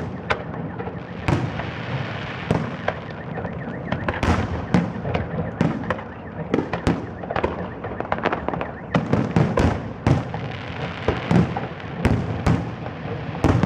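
Fireworks display: a rapid, irregular series of bangs and crackling bursts going off several times a second without a break.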